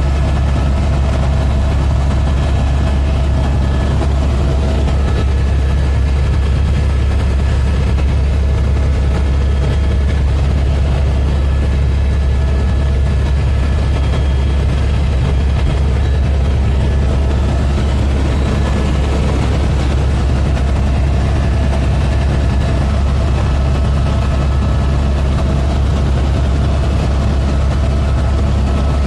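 Helicopter in flight: a loud, steady low drone with faint steady whine tones above it, unchanging throughout.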